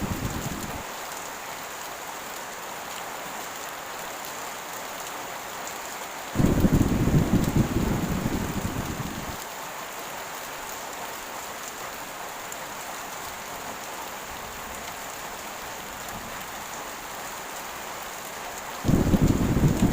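Heavy rain pouring steadily, with thunder rumbling over it: one roll ends about a second in, another starts suddenly about a third of the way through and lasts about three seconds, and a third begins near the end.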